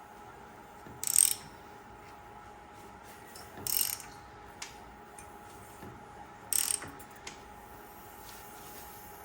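Ratchet wrench clicking in three short bursts a few seconds apart, turning the crankshaft of a Ford 4.6 V8 round in stages to line up its timing marks.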